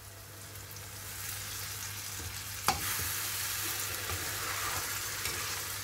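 Blended tomato puree sizzling in hot oil and fried onions in a frying pan as it is poured in and stirred with a steel ladle. The sizzle builds about a second in and holds steady, with one sharp knock against the pan a little before halfway.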